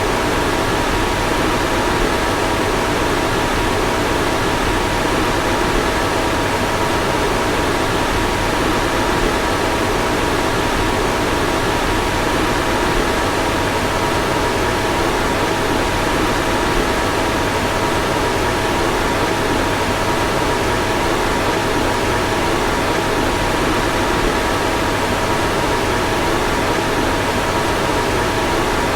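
Car fan running steadily: an even rush of air with a faint, constant whine over it.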